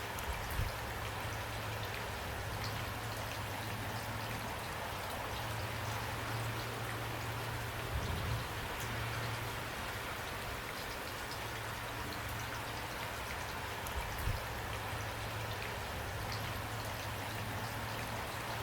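Steady rain falling, a dense hiss with many small drops tapping, and a few brief low thumps.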